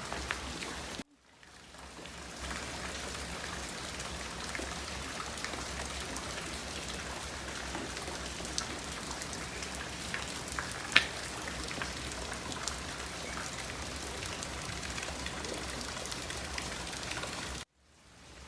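Steady rain falling, with many small raindrop taps on surfaces and one sharper tap about eleven seconds in. The sound cuts out briefly about a second in and again near the end.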